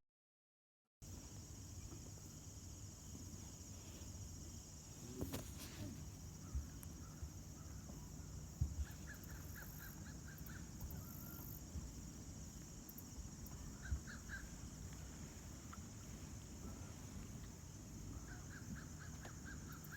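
Faint bird calls: three short bouts of quick repeated notes, over a steady outdoor background hiss.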